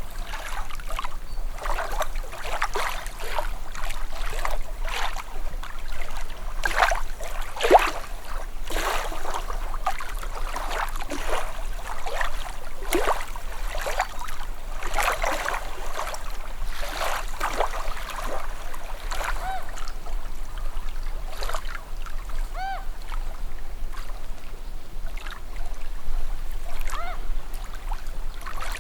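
Calm sea water lapping at the shore: a steady run of small splashes, gurgles and plops with no pause.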